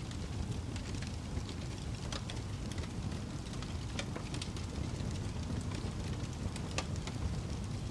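Wood fire burning, a steady low rumble with irregular crackles and small pops scattered through it.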